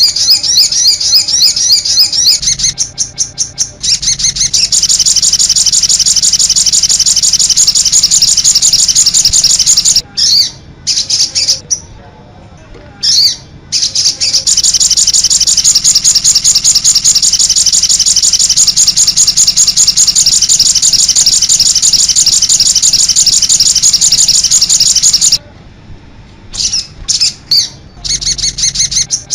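Recorded songbird song: long runs of fast, high-pitched trilling chatter lasting several seconds each, broken by short pauses. It is a mixed-birdsong 'masteran' track, the kind played to caged songbirds so they learn the songs.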